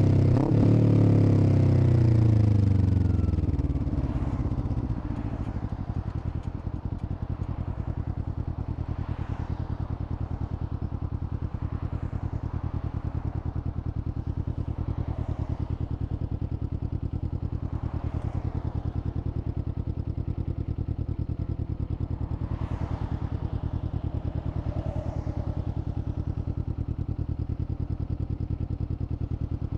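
Kawasaki Z400's parallel-twin engine dropping in revs over the first few seconds as the bike slows, then idling steadily. A few faint whooshes come and go over the idle.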